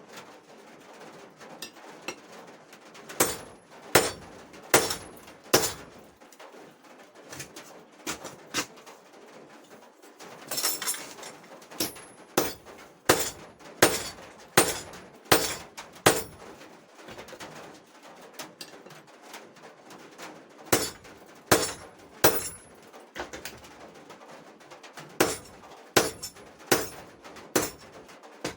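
Hand-hammer blows on hot steel at the anvil, in runs of three to six strikes a little under a second apart, with pauses between the runs and a short metallic ring after some blows.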